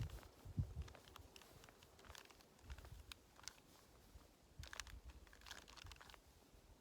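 Faint, scattered plastic clicks and rattles of a Square-1 puzzle being turned by hand, slowly and unevenly, over a low rumble.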